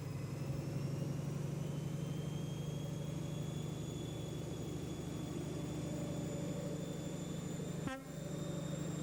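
Diesel train engine running with a steady low drone and a high whine that rises slowly in pitch as the train picks up speed. Near the end there is a brief break and the first blast of a train horn.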